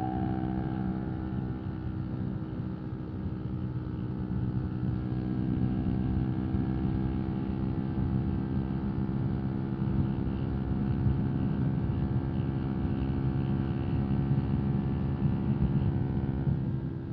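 125 cc single-cylinder sport motorcycle engine running at a steady, held speed while riding, with road and wind noise underneath. Near the end the engine note drops as the throttle is eased off.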